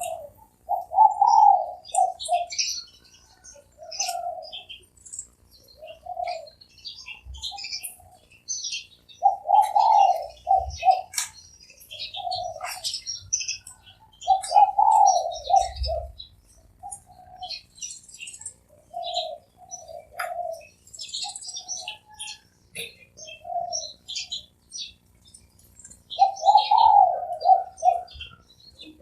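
Spotted dove cooing over and over, each phrase a short run of low coos, a new phrase every few seconds. Small birds chirp on and off in the background.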